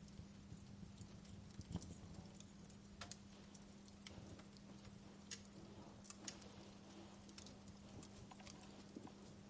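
Wood fire crackling faintly, with irregular small pops and snaps over a faint steady low hum.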